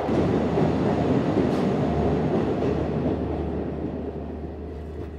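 Passenger train running through a long rail tunnel, heard from an open coach doorway: a steady, loud rumble of wheels on rails that eases off over the last couple of seconds as the train comes out of the tunnel.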